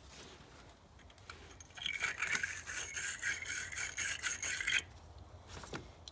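Wire battery-terminal brush scrubbing a battery terminal, cleaning it to bare metal: a fast scratching that starts about two seconds in and runs for about three seconds, with quieter scrapes before and after.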